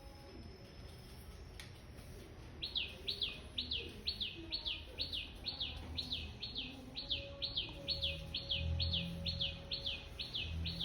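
A songbird calling one short, downward-sliding high note over and over in a steady series, a little over two a second, starting about two and a half seconds in.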